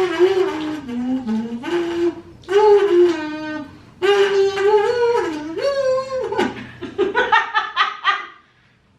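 A woman humming a tune in long held notes that step up and down, for others to guess the song. There is a stretch of laughter near the end.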